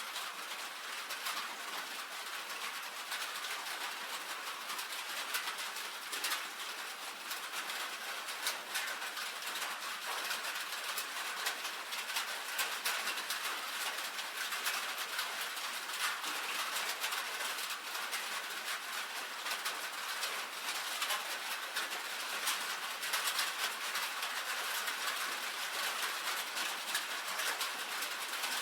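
Rain falling steadily on a tin roof: a dense patter of drop strikes over an even hiss.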